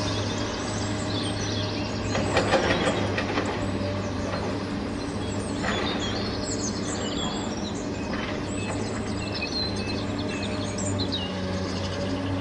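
Small birds chirping with short, high calls over a steady low hum, with a few light clicks about two to three seconds in.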